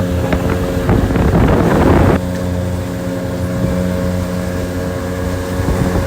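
Motorboat engine running steadily under way, with wind buffeting the microphone. A loud rush of noise rises over it about a second in and stops abruptly a second later.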